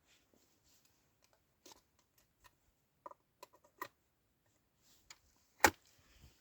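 Scattered light clicks and taps, with one sharp, much louder knock about five and a half seconds in.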